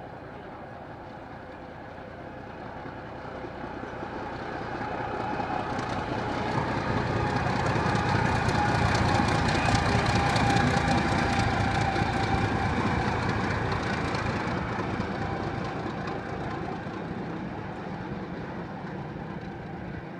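ChME3 diesel-electric shunting locomotive running light past, its diesel engine and wheels on the rails growing louder as it approaches, loudest about halfway through, then fading as it moves away.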